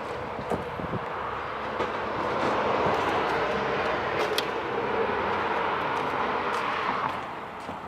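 Vehicle noise that swells for a few seconds and then fades near the end, with a few light clicks.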